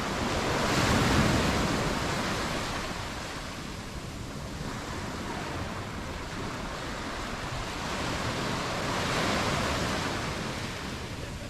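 Sea waves breaking and washing up onto the beach, with two swells: one about a second in and another near the end.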